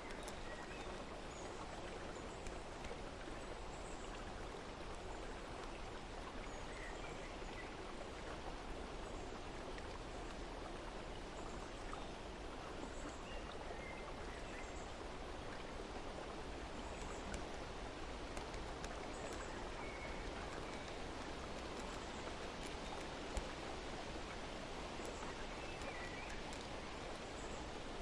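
Steady rush of flowing water, with faint, short bird chirps scattered through it.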